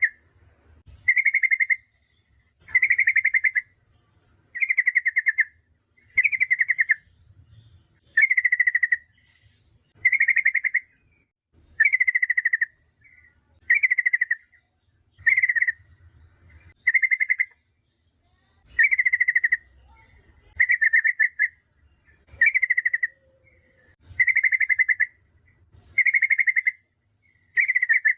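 Yellow-vented bulbul (trucukan) calling: short, rapid, chattering phrases repeated about every two seconds, each under a second long.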